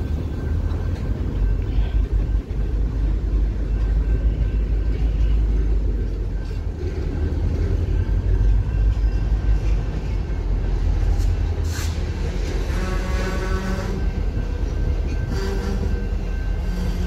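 Freight train of covered hopper cars rolling past with its CSX diesel locomotives approaching: a heavy, steady low rumble of wheels on rail and engines. A single sharp metallic knock about two-thirds through, and brief pitched squealing tones after it and again near the end.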